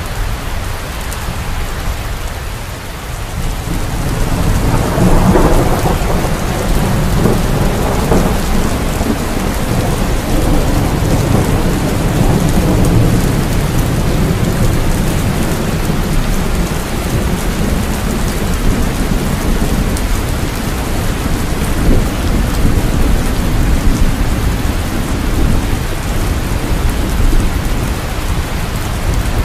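Steady rain with a deep rolling thunder rumble that swells about four seconds in and carries on under the rain.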